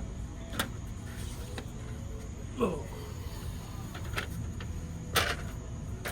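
Faint steady insect buzz, broken by a few sharp clicks and one short falling vocal sound about halfway through.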